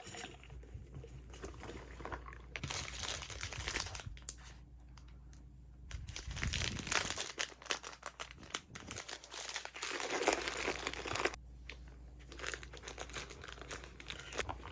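Packaging being crinkled and handled in irregular bursts of rustling and crackling, with some tearing.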